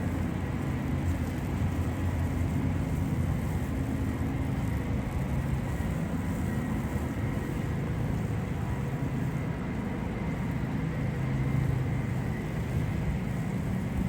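Steady low rumble of city street traffic, engines and tyres, with no single passing vehicle standing out.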